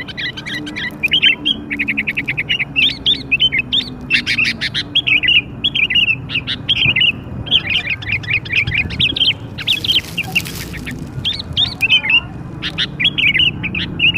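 Young sooty-headed bulbul (kutilang) calling non-stop in quick chirps and chattering phrases, the kind of lure call (pikat) used to draw wild bulbuls in. A short hiss breaks in about ten seconds in.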